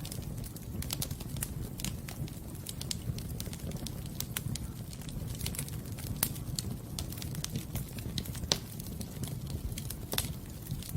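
Wood fire burning in a fireplace, crackling and popping irregularly over a steady low rumble of the flames, with a couple of sharper pops about six and eight and a half seconds in.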